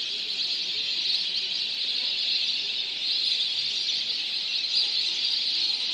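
Massed calling of a large flock of wintering migratory birds, a dense steady high-pitched chatter of many birds at once.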